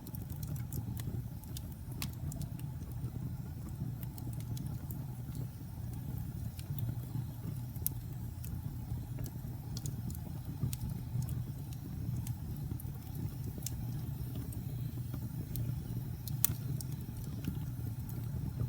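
Wood fire burning: a steady low rumble of flames with scattered sharp crackles and pops, the loudest pop about 16 seconds in.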